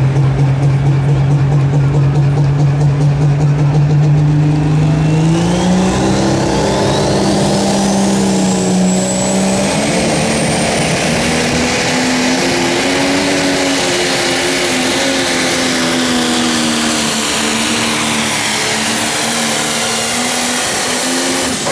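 Pro Stock pulling tractor's turbocharged diesel engine running steady, then revving up about five seconds in as it launches into the pull. A turbo whistle rises in pitch over the next several seconds, and the engine climbs and holds at high revs, building power down the track.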